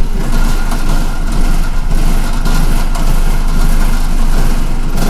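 City bus engine running, heard from inside the bus as a steady loud rumble with an even haze of road and cabin noise over it.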